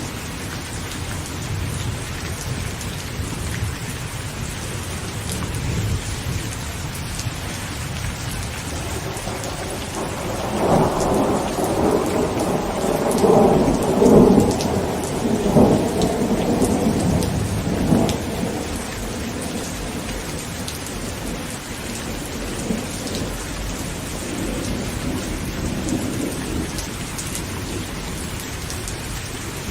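Heavy rain pattering steadily on a tent. Thunder builds about a third of the way in, rumbling and crackling loudest around the middle before fading, with a fainter roll near the end.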